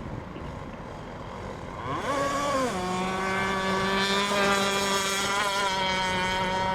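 RC racing boat engine running: a brief rise and fall in pitch about two seconds in, then a steady, high-pitched drone held at constant revs.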